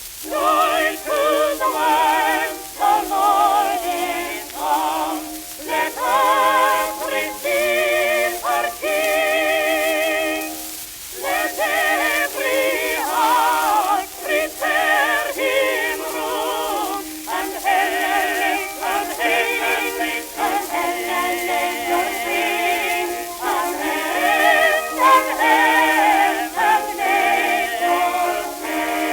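An early acoustic-era shellac phonograph record playing holiday music: a melody with heavy vibrato over accompaniment. The sound is thin, with no deep bass or bright treble, and surface hiss runs throughout.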